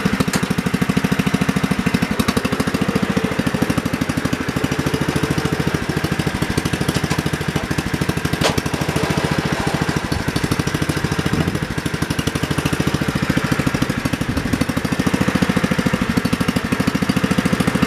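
1968 John Deere 110 garden tractor's single-cylinder engine running steadily, its firing pulses even and unbroken.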